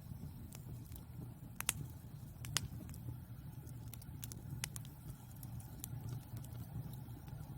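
Wood fire burning in a fireplace: a steady low rumble of flames with scattered sharp crackles and pops, the loudest about one and a half, two and a half and four and a half seconds in.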